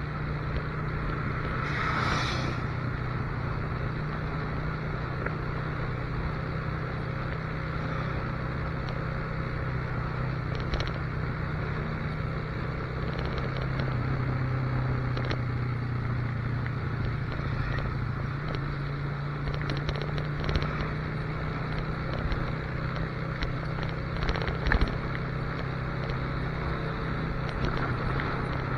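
Motorcycle engine running at a steady cruising speed with a constant rush of wind noise, and a brief hiss about two seconds in.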